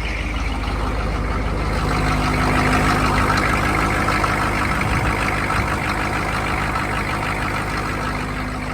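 1985 Chevy Suburban's 6.2-litre Detroit diesel V8 idling steadily and running smoothly. It grows a little louder for a few seconds in the middle, then eases back.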